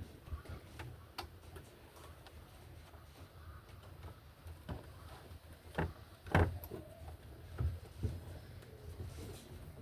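Scattered light clicks and knocks over a low steady hum, with two louder knocks about six seconds in.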